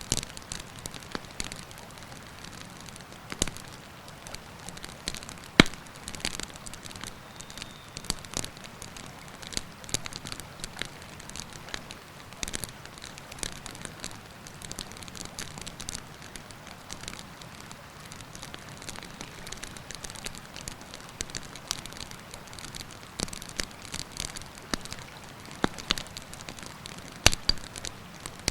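Wood campfire crackling, with sharp pops and snaps at irregular intervals, the loudest about six seconds in and near the end, over a steady rushing of river water.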